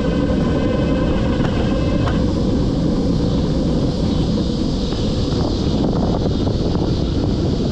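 Wind buffeting an action camera's microphone on a moving e-bike, a steady low rumble throughout. Over it, a steady high whine fades out about two seconds in.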